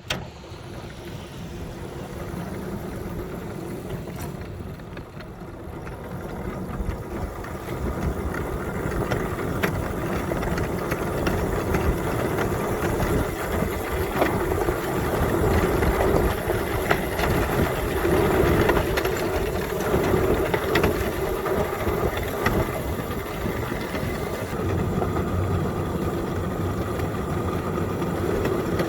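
Engine of a small ridable railroad plow vehicle running as it travels along the track, growing louder over the first ten seconds and then running steadily.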